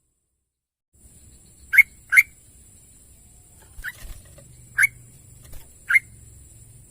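Yellow-vented bulbul giving five short, sharp calls: two close together about two seconds in, then three more spaced about a second apart.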